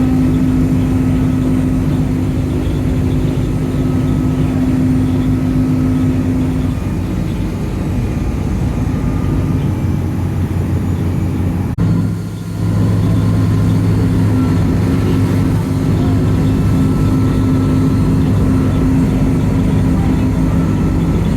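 Ferry engine running steadily on the open-water crossing: a loud, even drone. About twelve seconds in it dips briefly and comes back as a lower hum.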